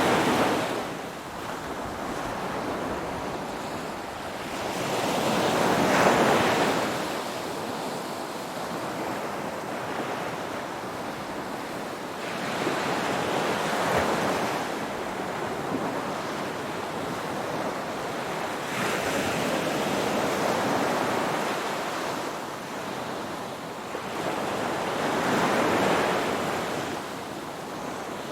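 Ocean waves breaking and washing on the shore, the surf swelling about every six seconds and easing back between breakers.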